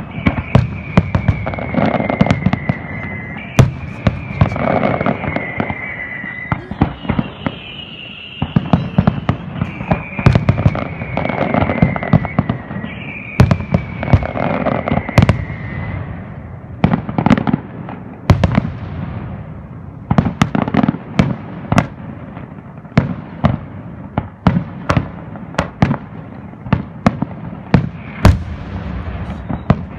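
Fireworks display: a dense run of sharp bangs and cracks from bursting shells. Over the first half, a high whistle falls in pitch about five times, each glide lasting a couple of seconds.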